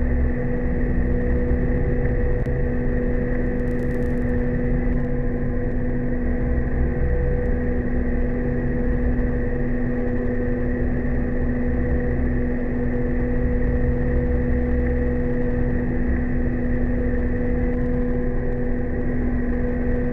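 Steamship's engine machinery running steadily under test: a continuous hum with a few constant tones over a low rumble that swells and eases every few seconds.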